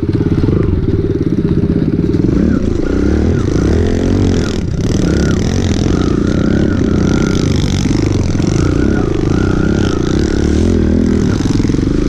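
Small pit bike engine being ridden, its pitch rising and falling over and over as the throttle is opened and closed.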